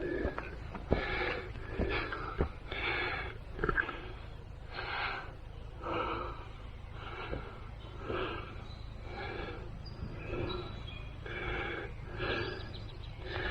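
A hiker breathing hard while walking, with one heavy breath about every second, and a few footfall clicks in the first few seconds.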